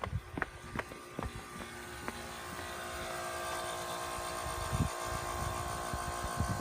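Heat pump outdoor unit whose fan motor is coming back on: a machine hum with several steady tones grows louder from about two and a half seconds in, after a few light ticks and knocks.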